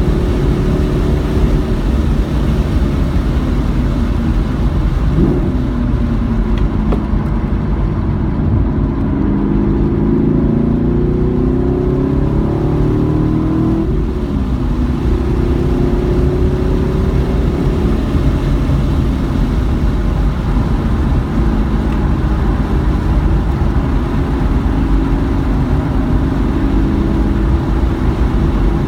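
Car engine running hard around a race track, its pitch climbing under acceleration, falling sharply around the middle, then climbing again, over a heavy low rumble.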